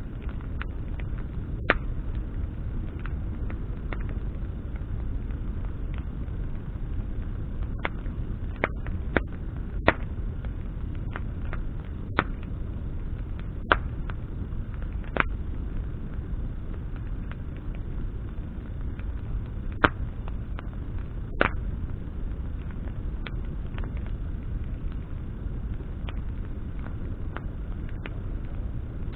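Wood bonfire burning: sharp crackles and pops of burning branches at irregular intervals, a dozen or so, over a steady low rumble.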